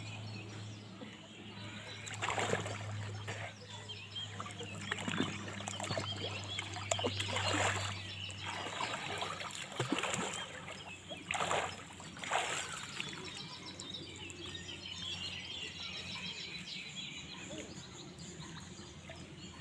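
Water splashing in a shallow pond, in several separate splashes, with water trickling and birds chirping in the background.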